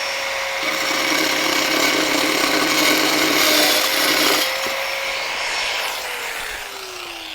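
Handheld power tool with a diamond blade running and cutting through a roof tile, a harsh grinding over the motor's whine for about four seconds. The cut then stops and the motor winds down with a falling pitch near the end.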